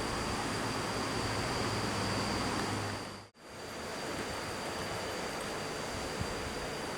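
Roadside outdoor ambience: a steady noise haze with insects droning at one constant high pitch, and a low engine hum under it for the first three seconds. About three seconds in, the sound briefly fades out and comes back without the hum.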